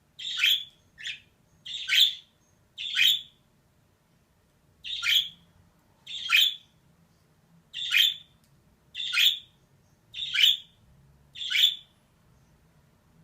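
A female budgerigar calling: about ten short, separate calls, roughly one a second, with a brief pause after the fourth.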